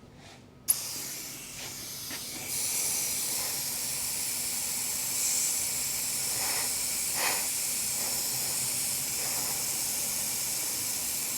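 Noga Mini Cool mist coolant nozzle spraying air and coolant: a steady hiss that comes on suddenly about a second in and grows stronger a moment later.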